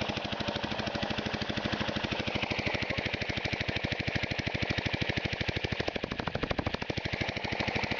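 Homemade compressed-air piston motor running steadily, its exhaust puffing in a rapid, even beat through a small straight-through muffler.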